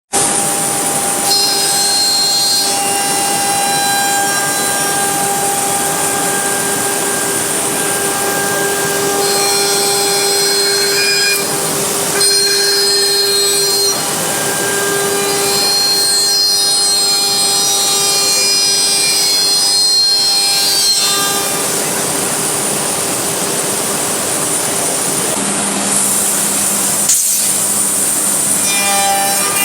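ATC CNC router spindle machining a wooden door panel: a steady high whine over the hiss of the bit cutting, its tone changing every few seconds as the cut moves on.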